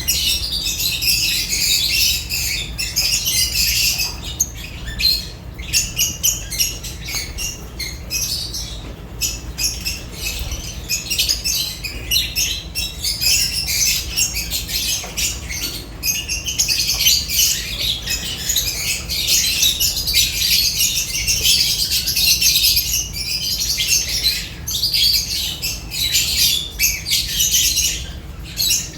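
Lovebirds chattering without pause, a dense stream of overlapping high-pitched chirps and squawks.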